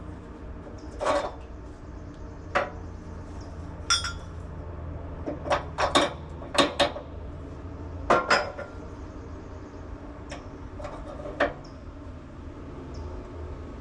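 Metal clinking and clanking: about a dozen sharp knocks, some in quick pairs, over a steady low hum.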